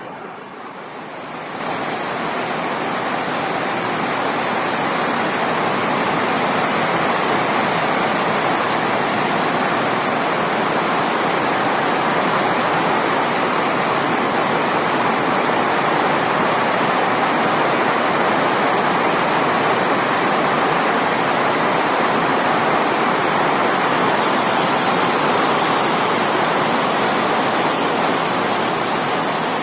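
Heavy rain pouring down in a dense, steady hiss, swelling over the first couple of seconds and then holding even.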